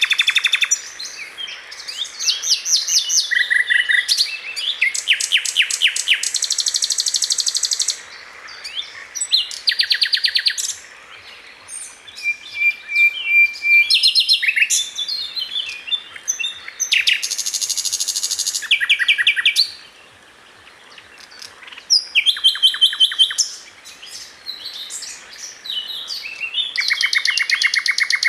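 Songbirds chirping and singing in fast trills of repeated high notes, one phrase after another, each phrase a different pattern lasting a second or two, with short pauses between them.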